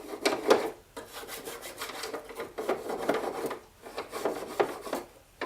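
Toothbrush scrubbing the indoor unit of a split air conditioner: quick back-and-forth brushing strokes in short runs, with brief pauses between them.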